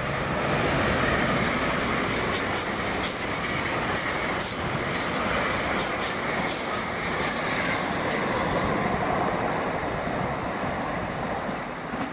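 A passenger train passing: a dense rush of wheel-on-rail and running noise that swells at the start and fades near the end, with a run of sharp high-pitched ticks through the middle.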